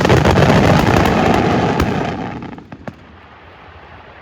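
Fireworks bursting: a dense barrage of crackling pops and bangs that dies away after about two seconds, followed by a couple of single sharp bangs.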